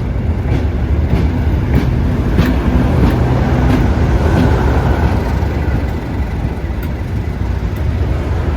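The double-headed Talyllyn Railway steam train coming in: a steady low rumble with scattered clanks and clicks, and a faint thin squeal near the middle.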